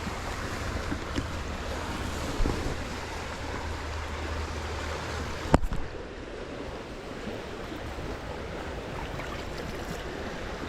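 Steady sound of moving water with wind on the microphone, and one sharp knock about halfway through.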